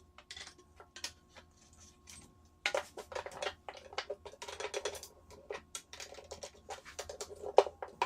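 PVC pipe and fittings clicking and knocking against each other as they are pushed together in a dry fit, a quick irregular run of sharp plastic clicks, densest in the second half.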